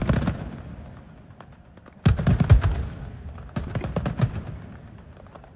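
Fireworks exploding in volleys of sharp bangs and crackles: a cluster at the start, a dense burst about two seconds in, and another volley a second and a half later.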